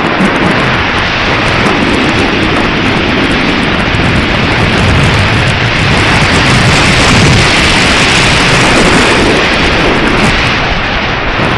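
Strong wind buffeting the microphone: a loud, continuous rushing roar with gusty swells in level.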